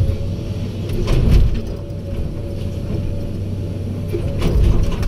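Heavy diesel earthmoving machinery running steadily with a thin steady whine over the engine hum. Loud clunks come about a second in and again near the end.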